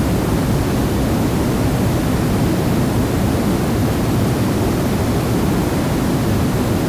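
River water flowing: a steady, unbroken rush with a deep, low-heavy sound.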